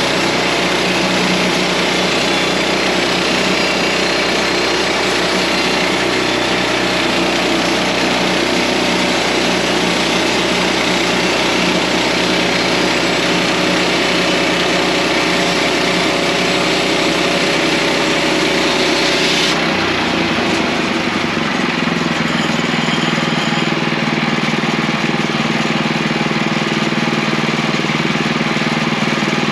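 Portable sawmill running and sawing through a log, with its engine and the hiss of the blade steady. About two-thirds of the way in the high hiss cuts off and the engine keeps running, as at the end of a cut.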